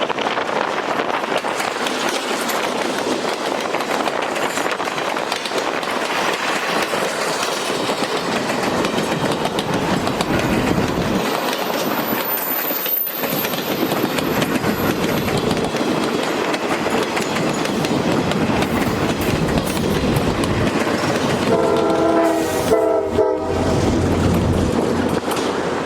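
Train running along the rails with a steady rolling noise, and a locomotive air horn sounding a chord of several notes for about two seconds near the end.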